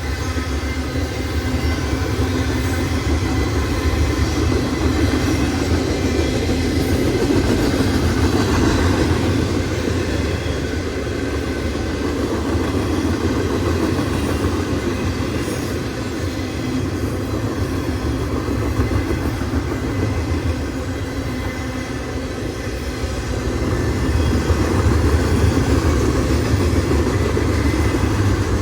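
Loaded BNSF garbage train's freight cars rolling past close by: a steady rumble with wheel clatter over the rail joints, a little louder near the end.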